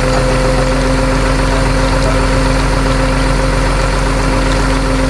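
Heavy truck engine idling steadily, with a steady hum held over the rumble.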